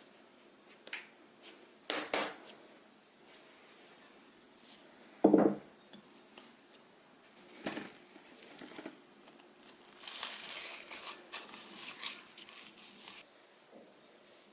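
Handling sounds while baking: scattered light taps and clicks, one dull thump about five seconds in, and a few seconds of crinkling rustle near the end.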